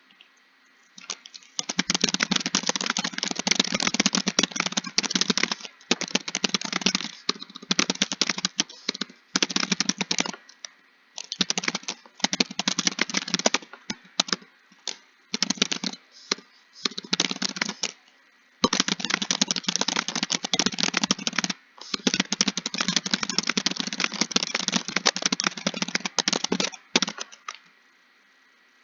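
Fast typing on a computer keyboard: rapid key clicks in runs of a few seconds each, broken by short pauses. The longest run comes in the second half.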